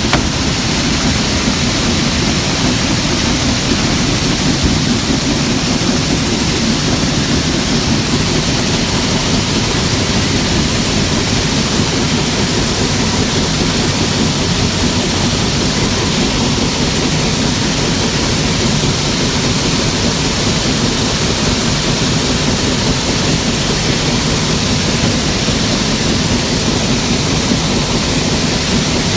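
Steady running noise of a vehicle, an even engine rumble with hiss, unchanging throughout.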